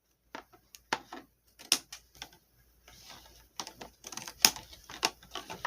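A toy's packaging being cut open and handled: irregular sharp clicks, snips and crackles, sparse at first and coming thick and fast over the last couple of seconds.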